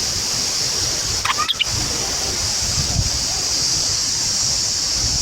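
Steady high-pitched hiss of outdoor ambience with a low rumble beneath, and one short bird chirp about a second and a half in.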